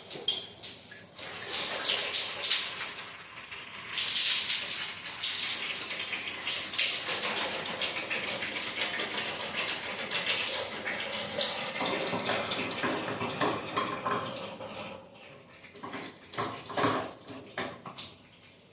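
Water running in a steady rushing flow that fades away after about fifteen seconds, followed by a few sharp knocks near the end.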